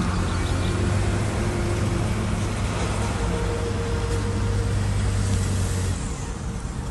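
Diesel engine of a heavy earthmoving machine running steadily with a deep drone, which drops away about six seconds in.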